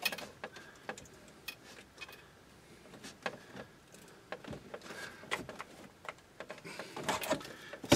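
Faint, irregular plastic clicks and light rattles as wiring harness connectors are worked loose from the back of a car's climate control panel.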